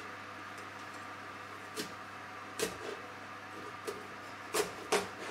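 Large kitchen knife cutting a pumpkin into pieces: a handful of sharp knocks from the blade and pumpkin against the cutting board, the first about two seconds in, louder near the end.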